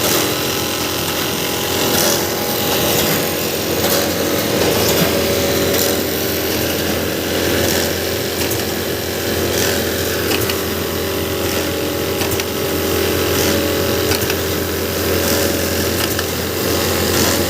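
A machine running steadily, with a constant hum and scattered clicks over a loud mechanical noise.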